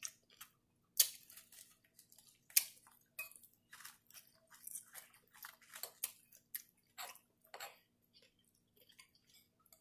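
Close-up chewing and crunching of nacho chips: irregular soft crunches and crackles, the loudest about a second in and again about two and a half seconds in.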